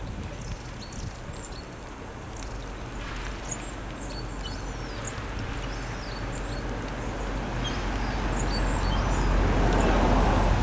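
Wind rumbling on the microphone with birds chirping in short high calls; a rush of wind noise builds over the last few seconds.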